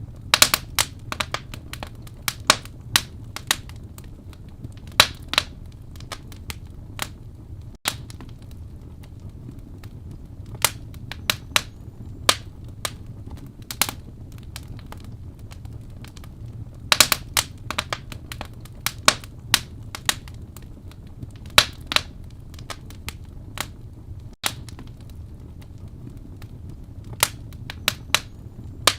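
Wood fire burning in a fireplace: a steady low rumble of flames under irregular sharp crackles and pops, which come in scattered clusters.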